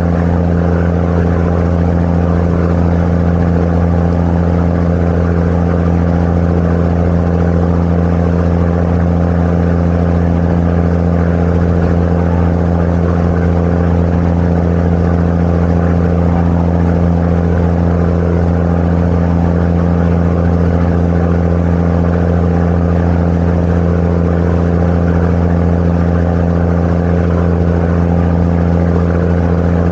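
Tour boat's engine running at a steady cruising speed, a loud, even low drone with no change in pitch, heard from on board.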